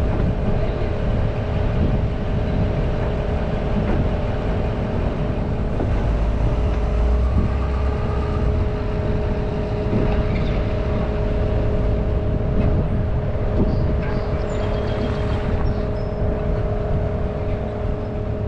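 Kubota wheel loader's engine running steadily, a low rumble with a steady whine over it that grows heavier for a couple of seconds about six seconds in.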